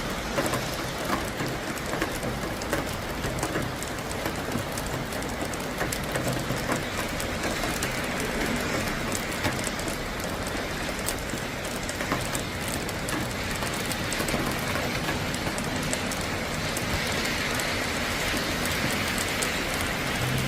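Rain falling steadily during a thunderstorm, a continuous hiss with many small ticks of drops striking a surface.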